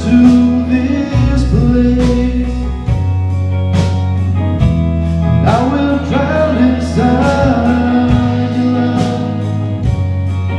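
Live church worship band playing: bass and guitar over a steady drum beat, with a voice singing over the music.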